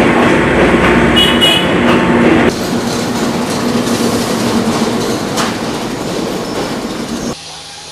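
Train running, its carriages rattling on the rails, with a brief high squeal about a second in. The sound drops abruptly about two and a half seconds in and again near the end.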